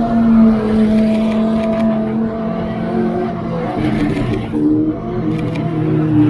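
Pagani Huayra R track cars' naturally aspirated V12 engines running at low revs as the cars roll past slowly. The engine note is steady at first and shifts pitch about halfway through.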